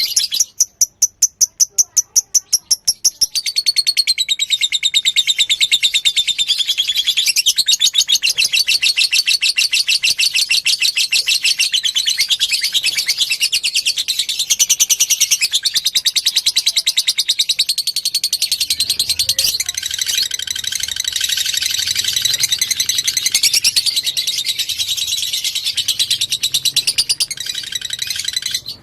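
Lovebird singing a long, fast chattering song: about three seconds of separate sharp chirps, then an unbroken rapid high-pitched trill that runs on without pause.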